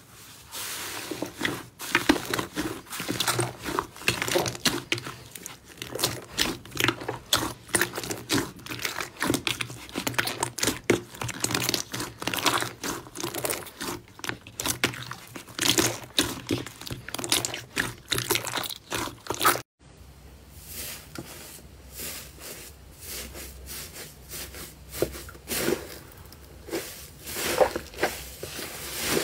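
Slime being squeezed and worked by hand, giving dense crackling and clicking. The sound cuts off abruptly about two-thirds of the way through, and quieter crackling of the same kind follows.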